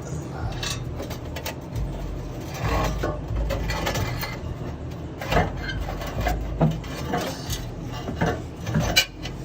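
Cut-off stock exhaust pipe of a Ford Focus ST being worked free past the rear axle, scraping and clanking against the underbody in irregular knocks, the sharpest one near the end.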